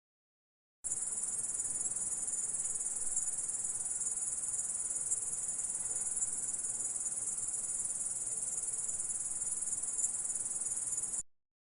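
Grasshopper stridulating: a continuous high-pitched trill that starts abruptly about a second in and cuts off abruptly near the end.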